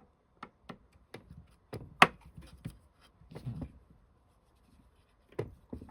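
Irregular small clicks, taps and scraping from working the bobbin-release mechanism of a Singer Genie 353 sewing machine by hand, with one sharp loud click about two seconds in.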